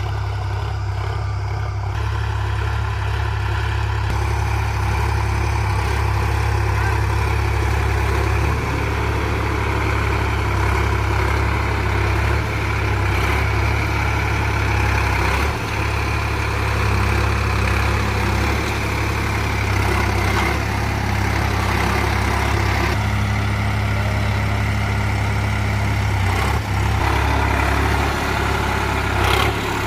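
Sonalika tractor's diesel engine running steadily with a heavy low drone while pulling a plough, its note shifting slightly a few times.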